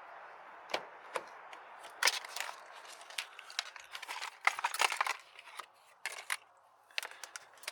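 Small loose items being handled and rummaged through: a run of sharp clicks and knocks with crinkling, rustling bursts, busiest in the middle, over a steady hiss.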